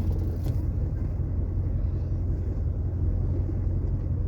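Steady low rumble inside the cabin of a 1981 Cadillac Seville, its engine and road noise running evenly, with a faint click about half a second in.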